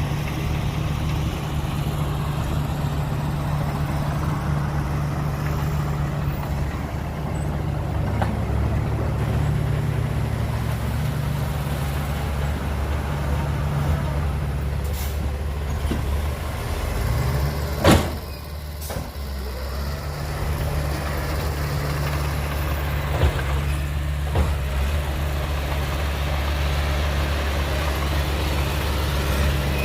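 Heavy diesel earthmoving machinery, a bulldozer and dump truck, running steadily with a low drone. About two-thirds of the way through comes one sharp bang, after which the engine note briefly drops, and a few seconds later two lighter knocks.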